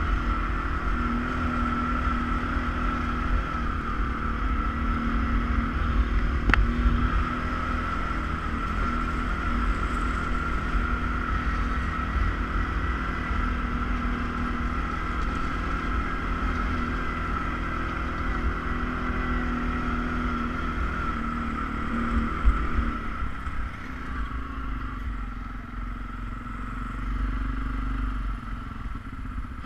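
ATV engine running at a steady pitch over a deep rumble while riding. About 23 seconds in the engine note drops and eases off, just after a single sharp knock.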